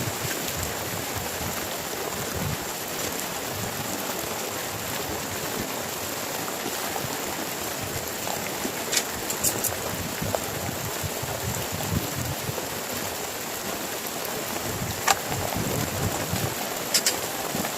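Heavy rain falling steadily as an even hiss, with a few sharper, louder taps about halfway through and near the end.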